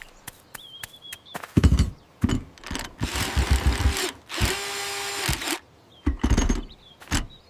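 Cartoon sound effects: a run of clicks and knocks, then two mechanical whirring bursts of about a second each, like a small power tool or motor running.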